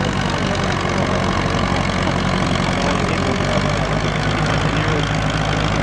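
Farmall Super MTA's four-cylinder diesel engine running at a steady speed, loud and unchanging, with no revving.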